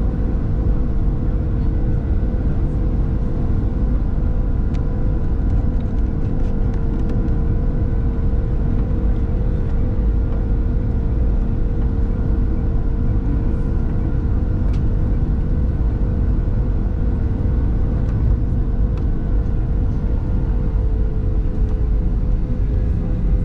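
Cabin noise inside a Boeing 737-700: its CFM56-7B jet engines run with a steady rumble and a whine. The main tone dips slightly in pitch near the end.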